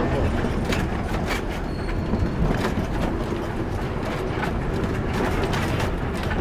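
Truck running on the road, heard from inside the cab: a steady low engine and road rumble with frequent irregular rattles and knocks.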